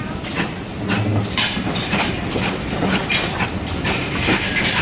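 Steam-hauled passenger train running along the line: wheels clattering over the track with irregular sharp knocks over a steady rushing noise.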